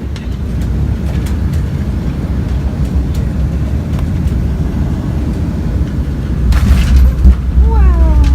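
Airliner cabin noise during landing: a steady low rumble of engines and airflow, which grows louder about six and a half seconds in with a short burst of rushing noise.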